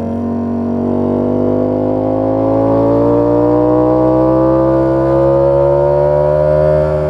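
Ducati Panigale V4 S's 1103 cc V4 engine pulling uphill under load, its note rising slowly and steadily with the revs. The revs dip near the end.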